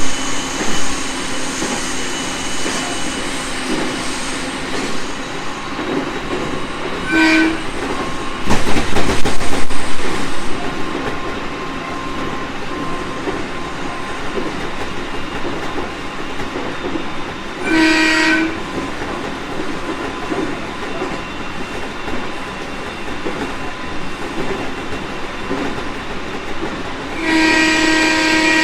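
JR East 701 series 1000-subseries electric train running, heard from on board: steady wheel-on-rail and running noise. A loud rush comes about 8 seconds in and lasts about two seconds. Three short pitched tones sound at about 7, 18 and 27 seconds, and the last one is the longest.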